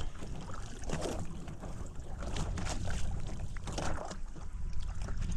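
Strong wind buffeting the microphone as a steady low rumble, with irregular short splashes and knocks of water and handling on a small boat over it.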